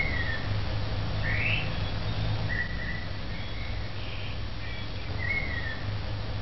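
A bird whistling a short phrase of a falling note, a rising sweep and a level note, which starts over about five seconds later, above a steady low rumble.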